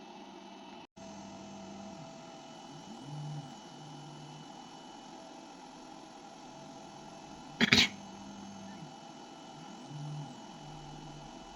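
A machine running with a steady hum. Short low motor tones rise, hold and fall twice, and there is one sharp click about halfway through.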